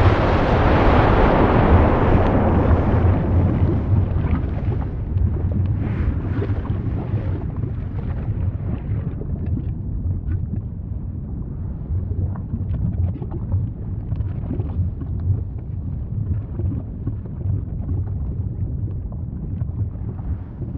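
Volcanic eruption: a loud burst of rushing noise at the start that dies away over several seconds into a steady low rumble, with scattered crackles through it.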